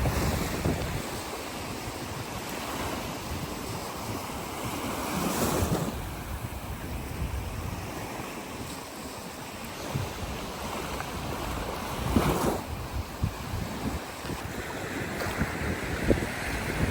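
Small waves washing up onto the beach, a steady rush of surf that swells about five seconds in and again about twelve seconds in, with wind buffeting the microphone.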